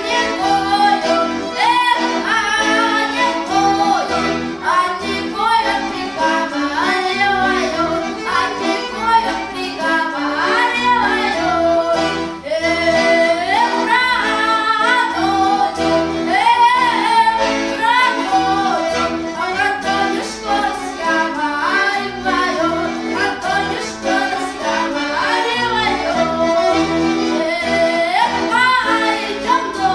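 Women singing a Russian khorovod (round-dance) folk song from the Ryazan region, a melodic line that keeps bending and breaking over steady lower sung tones.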